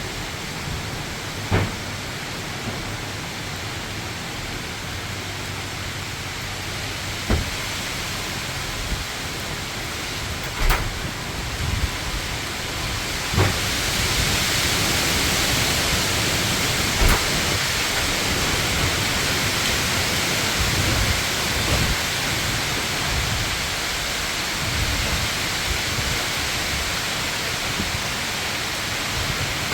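Heavy wind and rain: a steady rushing hiss with uneven low rumbling from gusts. The hiss grows louder about 14 seconds in. A few sharp knocks are scattered through it.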